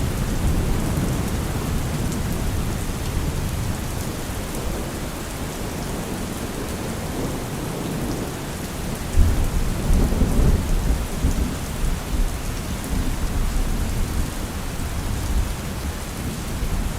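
Heavy rain falling in a steady dense hiss over a deep low rumble, with a louder rumbling swell about nine seconds in.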